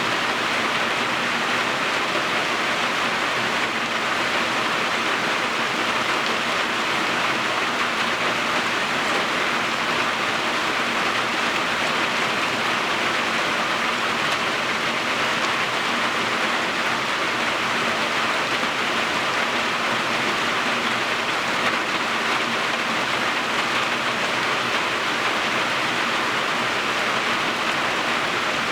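Steady rain falling, an even hiss without any distinct drips or gusts.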